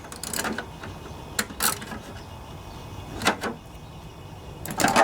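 Scattered clicks and knocks of lawnmower parts and hand tools being handled during reassembly, a few separate sharp taps rather than any running machine.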